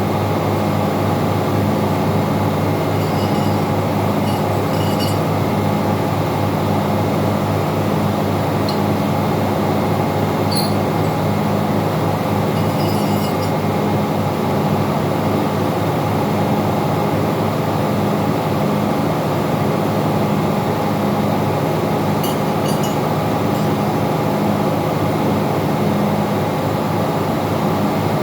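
Engine-room machinery running steadily, a loud constant drone with a throbbing low hum. A few faint metallic clinks of tools are heard now and then.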